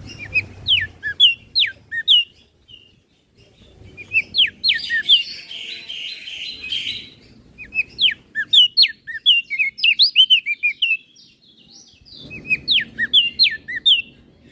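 Crested darkeye singing: quick runs of clear whistled notes, each dropping steeply in pitch, in three bursts with short pauses between them. A harsher, noisier chatter comes under the notes in the middle burst.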